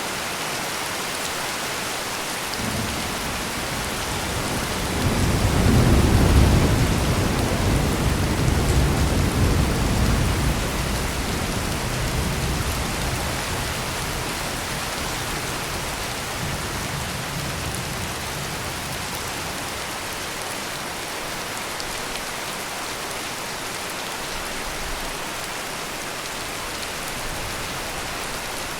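Heavy rain falling steadily, with a long low roll of thunder that builds a few seconds in, is loudest around six seconds, and rumbles away over the next several seconds.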